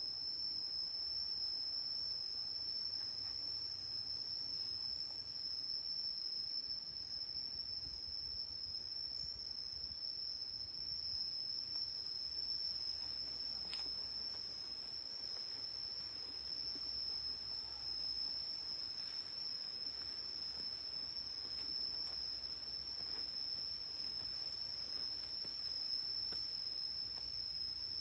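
Insects calling in a steady, unbroken high-pitched drone.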